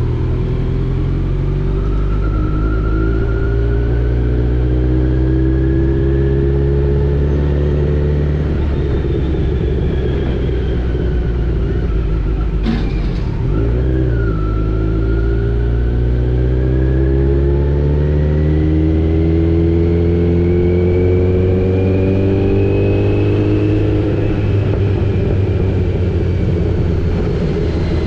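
Kawasaki Z900's inline-four engine pulling at low speed, its pitch rising slowly as the bike gathers speed. About halfway through there is a brief break and the pitch drops back, as on an upshift, then it climbs again and eases off near the end.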